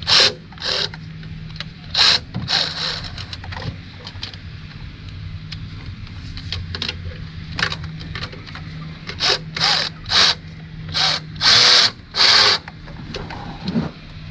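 Handheld power tool run in about a dozen short bursts, backing out a timing-cover bolt, over a low steady hum.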